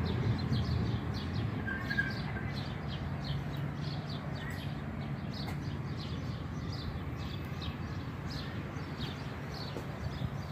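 Small birds chirping over and over in short, high chirps, a few each second, over a steady low rumble.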